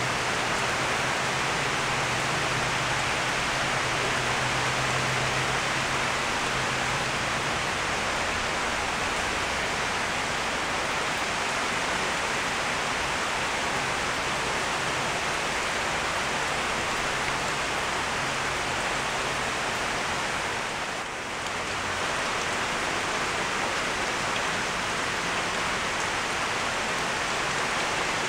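Steady rain falling on garden foliage, an even, unbroken hiss that dips briefly for a moment about three-quarters of the way through.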